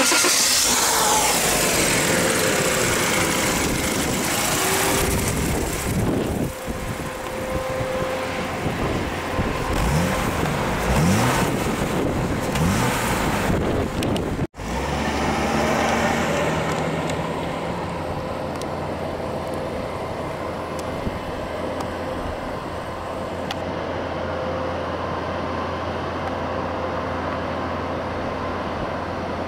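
1993 Jaguar XJS engine running, heard close at the open engine bay, revved several times so its note rises and falls. After a sudden cut about halfway, a steadier, lower engine drone as the car is driven away.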